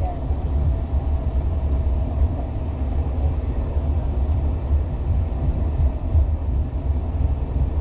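Steady low rumble of a Dash 8 Q400 turboprop airliner, heard from inside the cabin.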